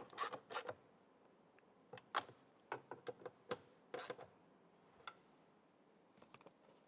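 Hand ratchet clicking in quick strokes as screws are snugged down, then scattered single clicks and light taps of the tool.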